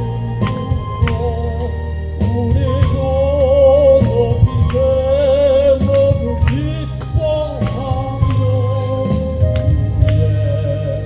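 A gospel song: one singer's voice with vibrato over an instrumental accompaniment with steady bass notes.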